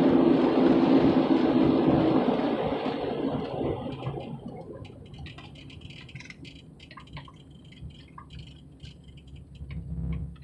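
Road and engine noise inside a moving car, fading away over the first few seconds. It leaves a quiet cabin with faint scattered ticks and rattles, and a low hum swells briefly near the end.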